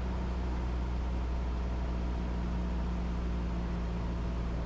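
Cessna 172's four-cylinder Lycoming engine and propeller droning steadily in flight.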